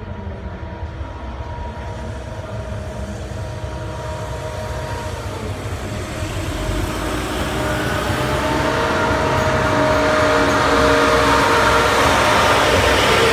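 Pesa Link diesel multiple unit approaching and passing close by, its running noise with several steady whining tones growing louder throughout. The tones shift in pitch about halfway through, and the train is loudest near the end as it goes past.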